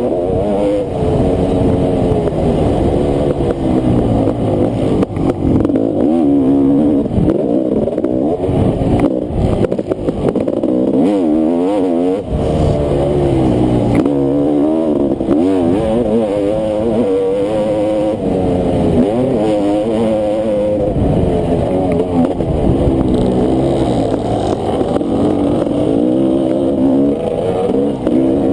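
Honda CR500's two-stroke single-cylinder engine racing on a motocross track, its pitch rising and falling again and again as the throttle is opened and shut through the turns and jumps.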